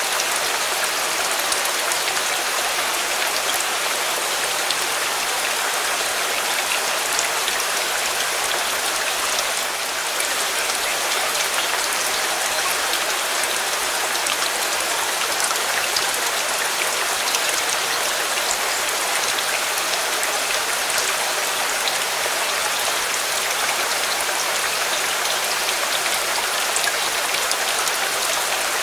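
Steady, heavy rain falling and pattering on surfaces, with many small drop ticks through a constant hiss.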